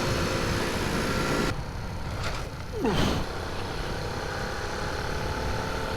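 Honda C90's small four-stroke single-cylinder engine running on the road, mixed with wind noise. The wind hiss drops away for about a second and a half midway, and about three seconds in a sound sweeps quickly down in pitch before the steady engine note returns.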